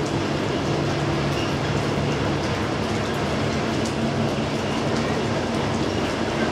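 Freight train of tank wagons rolling slowly along the yard tracks: a steady rumble with a low hum and faint scattered wheel clicks.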